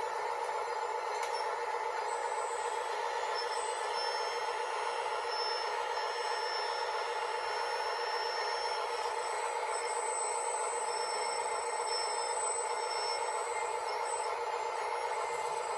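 Small electric motors of radio-controlled construction models running with a steady whine, with higher tones coming and going through it.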